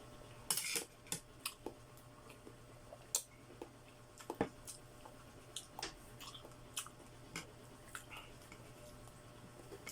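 Close-up mouth sounds of someone eating chicken feet: irregular wet clicks and smacks of chewing and sucking, one or two a second.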